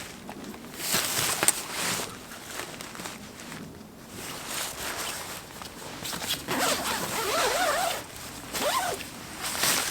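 A zipper pulled in several long strokes. A brief warbling, wavering sound runs between them in the second half.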